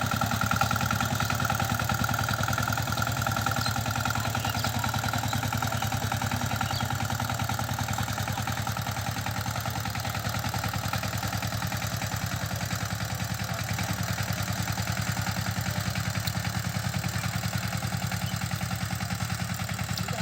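A power tiller's 16 HP diesel engine running steadily with a fast, even chugging, along with a thin high whine that fades over the first several seconds.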